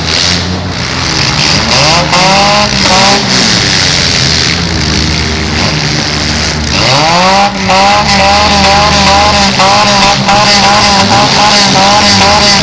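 Demolition derby compact cars' engines revving hard. One engine climbs in pitch twice, about two seconds in and again about seven seconds in, then holds high and wavering, with scattered sharp bangs.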